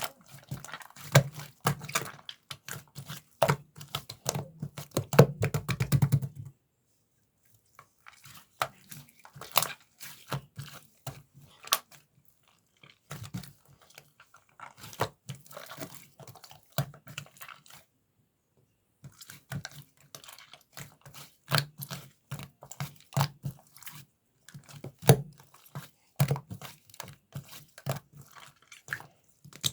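Mint-chocolate slime being squeezed, pressed and pulled by hand, giving quick runs of wet pops and clicks in bursts, broken by short pauses.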